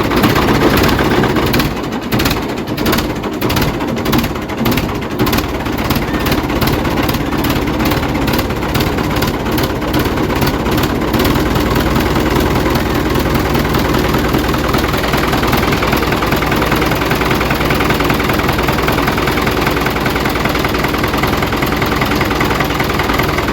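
Tractor engine running steadily at idle, with a fast, even knocking beat through roughly the first half that then fades into a smoother hum.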